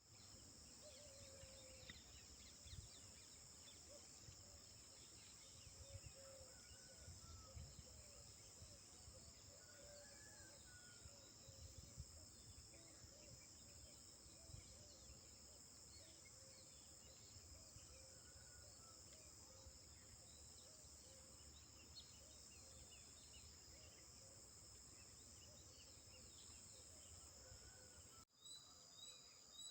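Faint outdoor ambience: a steady high insect drone with scattered small bird chirps and a low wind rumble. Near the end the sound drops out briefly, then a run of evenly repeated chirps starts.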